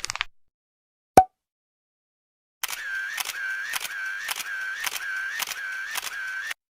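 Sound-effect clips: a short rattle of clicks, then a single sharp click about a second in. From about two and a half seconds a mechanical click with a short whine repeats evenly about twice a second, eight times, then cuts off.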